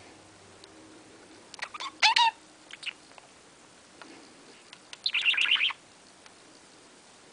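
Budgerigar chirping in two short warbling bursts, one about two seconds in and a longer one about five seconds in, with a few faint clicks around them.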